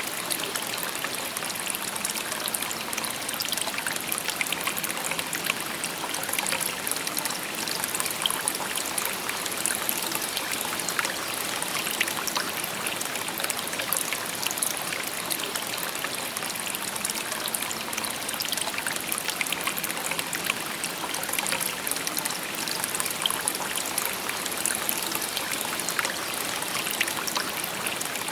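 A shallow river or brook babbling steadily over stones, a continuous bright rush of water dotted with small trickling splashes.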